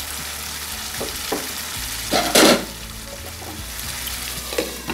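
Chicken and its oily sauce sizzling in a nonstick wok, with a steady hiss. A few light knocks come through, and there is a louder short clatter about halfway through.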